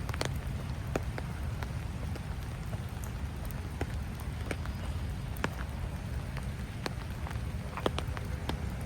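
Light rain, with scattered single drops ticking sharply close by over a steady low rumble.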